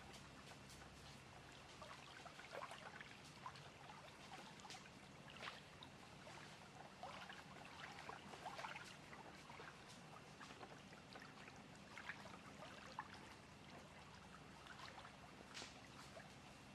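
Lake water lapping quietly at the shore, with a scatter of small irregular splashes and trickles.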